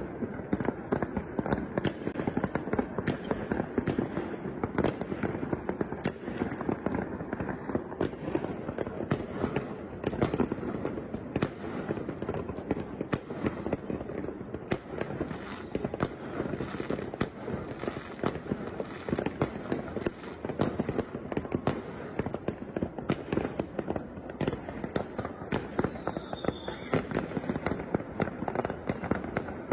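Fireworks going off continuously, many overlapping bangs and pops over a steady rumbling din, with a brief falling whistle near the end.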